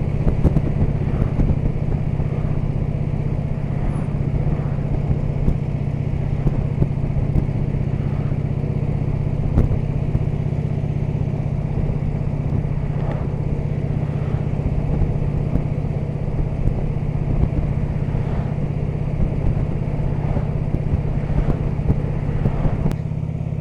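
Harley-Davidson touring motorcycle's V-twin engine running at a steady cruise, with road and wind noise. The note holds even, with no revving, and eases slightly near the end.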